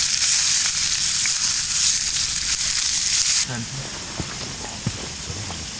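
Potato peels frying in hot lard in a cast-iron pan over a campfire, a loud sizzle from seasoning the pan. About three and a half seconds in it drops sharply to a quieter sizzle with scattered pops.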